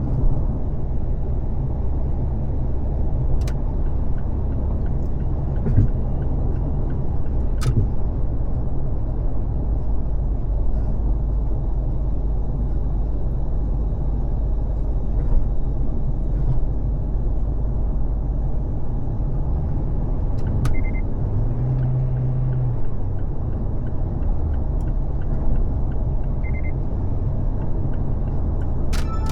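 Steady low rumble of a car's road and tyre noise at freeway speed, with a few faint sharp clicks.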